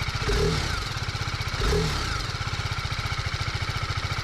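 TVS Apache RR310's single-cylinder engine idling with an even, regular beat, blipped twice, briefly, by the throttle: about a third of a second in and again near the two-second mark.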